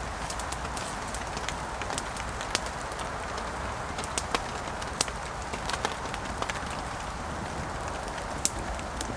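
Campfire burning with a steady hiss, and sharp crackles and pops every second or so.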